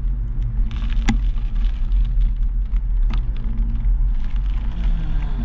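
Steady low road rumble, with wind and traffic noise, picked up while riding a bicycle along a town street. Several sharp clicks come through it, the loudest about a second in.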